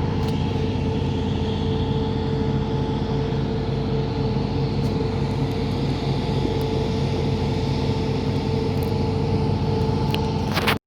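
Steady engine drone with a constant hum, ending in a click and an abrupt cut near the end.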